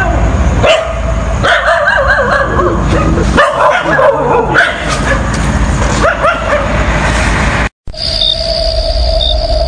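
Dogs whimpering, yipping and barking over a low rumble, as a horror sound effect. About three quarters of the way in it cuts out abruptly, and a steady eerie drone with short high beeps starts.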